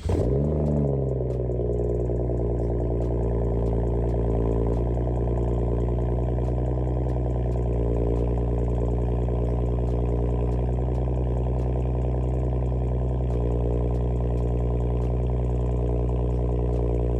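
BMW 335xi's N55 turbocharged straight-six cold-starting through a muffler-deleted exhaust with quad tips. It catches at once with a brief rev flare, then settles into a steady cold idle.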